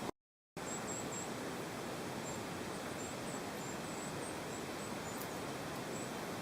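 Steady outdoor background hiss with faint, very high-pitched small-bird chirps scattered throughout, after a brief dropout near the start.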